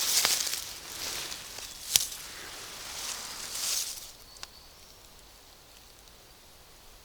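Rustling of forest undergrowth with a few sharp snaps as someone moves through the fern stand gathering shoots; the rustling dies away about four seconds in.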